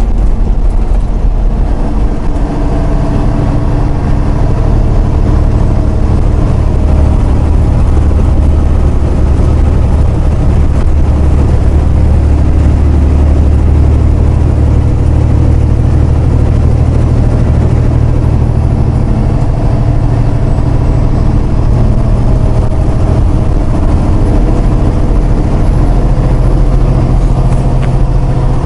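Semi truck's diesel engine running under way with road noise, heard from inside the cab; the engine's low drone shifts pitch a few times.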